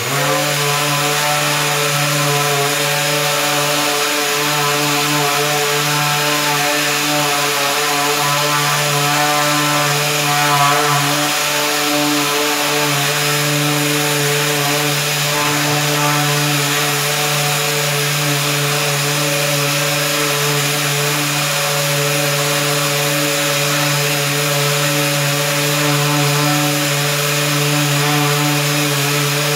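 Power sander running steadily with a constant motor hum, scuffing a plastic car bumper with 240-grit abrasive ahead of priming.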